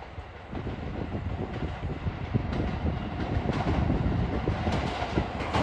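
A JR Shikoku train running on the tracks, a low rumble that grows steadily louder as it comes closer.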